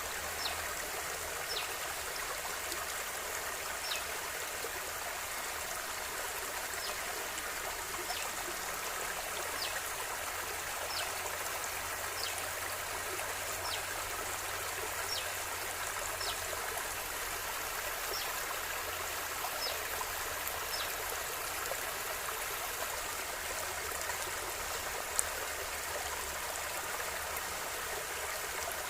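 Stream water flowing steadily, an even rushing hiss, with short high ticks about once a second and one sharper click near the end.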